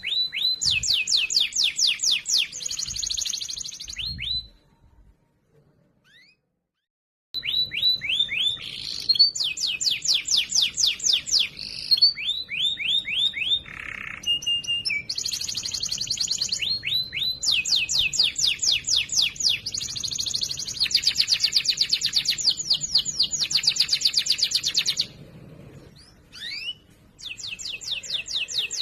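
Domestic canary singing loud, clear song: rapid rolling trills of quickly repeated down-slurred notes, phrase after phrase, broken by a few seconds' silence about five seconds in and a short break near the end.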